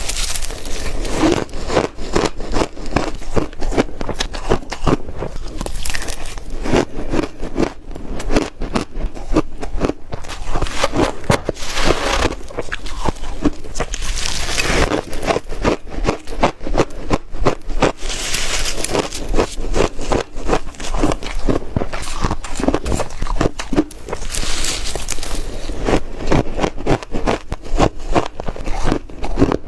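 A person biting and chewing ice close to the microphone: a dense run of crisp crunches and crackles, with louder, hissier bites every few seconds.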